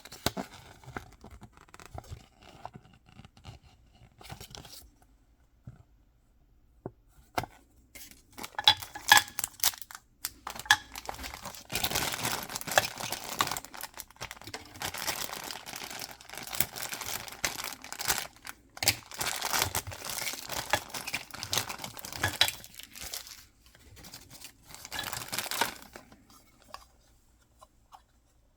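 Packaging being torn open and crinkled by hand. There are light crackles at first and a short pause, then a long stretch of continuous tearing and crinkling with sharp snaps that fades out near the end.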